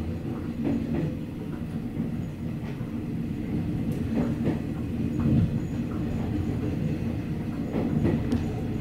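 Running noise of a 185-series electric train: a steady low rumble of wheels on rail, with scattered clacks as the wheels pass over rail joints.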